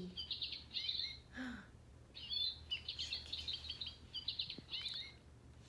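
Chickadee giving its chick-a-dee call twice, a sweeping opening note followed by a quick run of repeated high notes.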